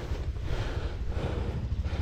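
Wind buffeting the microphone, a steady low rumble with a hiss over it.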